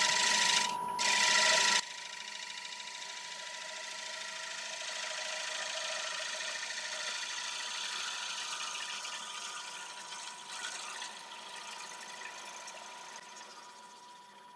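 Bowl gouge cutting across the bottom of a spinning applewood bowl on a wood lathe: a loud hissing cut for about the first two seconds, then a quieter, lighter shaving hiss that fades away near the end. A thin steady whine runs underneath throughout.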